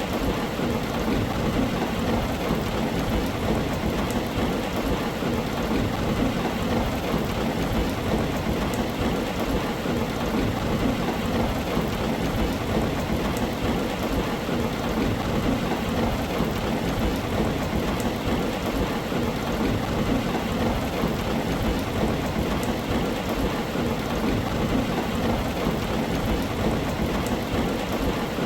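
Steady heavy rain falling on a tin roof, an even wash of noise with small drop ticks and no pauses.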